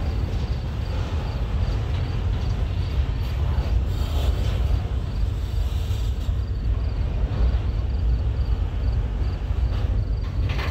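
Double-stack intermodal container train rolling past, a steady low rumble of wheels on rail with a faint, regular ticking above it.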